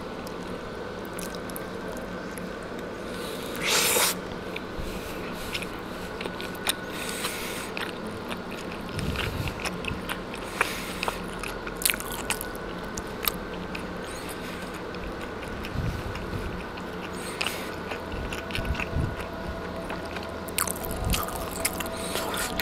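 A person biting and chewing a chicken tortilla wrap: scattered small mouth clicks and chewing sounds over a steady background hum, with a short louder noisy burst about four seconds in.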